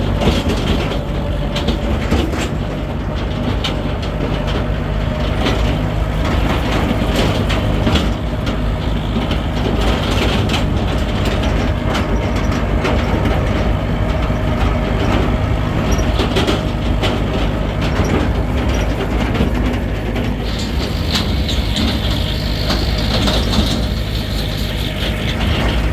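An engine running steadily at one speed, with rattling clicks over its drone.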